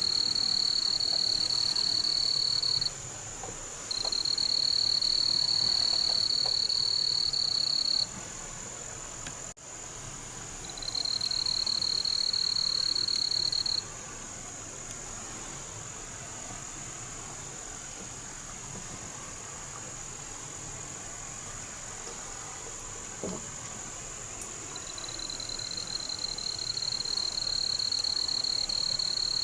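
High-pitched trills from calling insects or frogs, each held steady for about three to four seconds and heard four times, over a continuous fainter, higher-pitched chorus.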